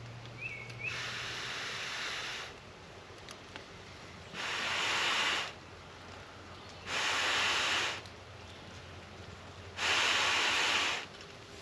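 Long breaths blown onto a smouldering campfire to feed it air: four gusts about a second or more each, the last three louder and a couple of seconds apart.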